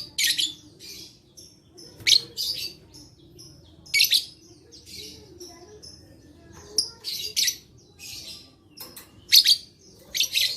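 Lovebird chirping in short, shrill bursts of rapid chirps, one burst every second or two.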